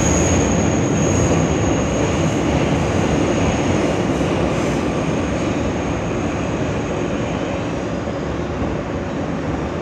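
R160 subway car running between stations, a steady rumble of wheels and running gear on the rails. A faint high wheel squeal fades out in the first couple of seconds, and the noise eases a little toward the end.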